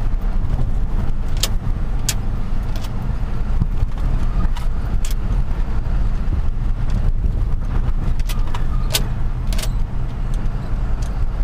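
Truck engine running steadily while driving, a constant low drone heard from inside the cab, with scattered sharp rattling clicks at irregular moments.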